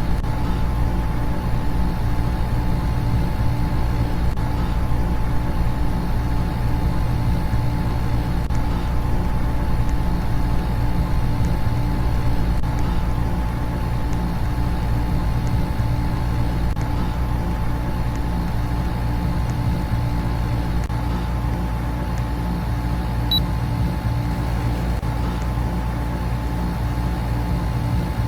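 Air conditioner and electric fans running together: a steady low hum with a few faint constant tones above it, unchanging throughout.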